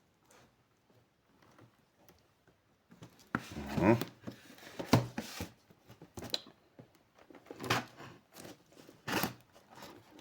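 Packing tape on a cardboard parcel being cut and torn open: several short scrapes and rips, starting about three seconds in.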